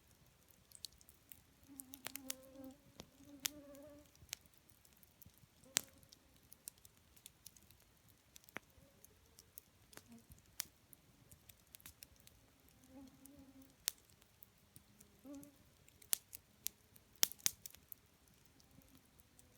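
Wood campfire crackling, with scattered sharp pops. A short, low buzz comes and goes a few times.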